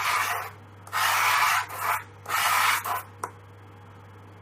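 Dry pastel stick scraping across paper in three strokes, each about half a second long, then a light click a little after three seconds in before the strokes stop.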